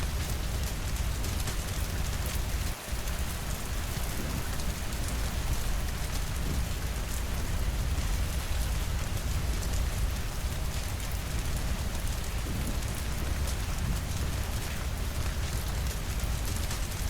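Steady rainfall: a constant hiss over a deep low rumble, with fine ticks of drops scattered through it and a brief dip in level about three seconds in.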